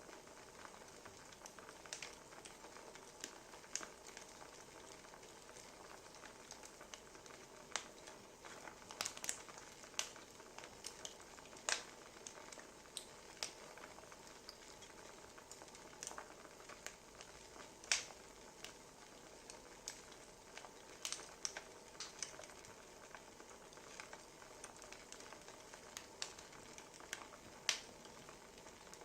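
Wood fire crackling: irregular sharp pops and snaps of burning logs over a soft steady hiss.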